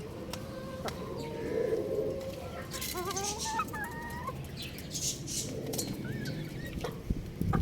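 Young rooster calling: a drawn-out note, then a few short wavering calls about three seconds in. A low thump comes near the end.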